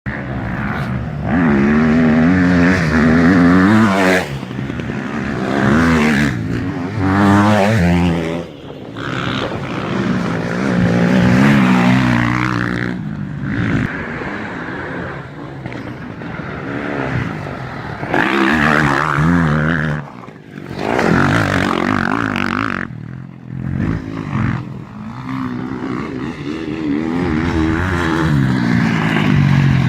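Motocross motorcycle engines racing, their pitch climbing and dropping again and again as the bikes accelerate and back off. The loudness swells and falls away several times.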